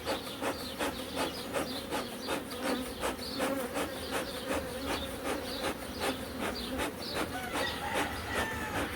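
Honeybees buzzing around an open hive, a steady hum, with a rapid run of soft ticks about four a second.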